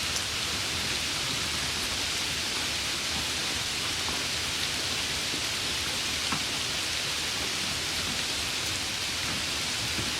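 Steady summer rain falling, an even hiss with a few scattered drops ticking on a surface.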